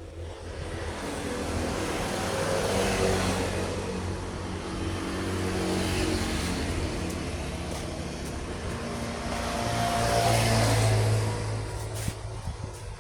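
Road traffic passing close by: engine and tyre noise swells to a peak about three seconds in and again, loudest, around ten to eleven seconds, with a low engine hum underneath.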